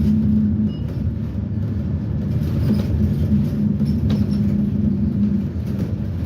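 Propane-fuelled GM Vortec V8 of a Blue Bird Vision school bus running with a steady low drone.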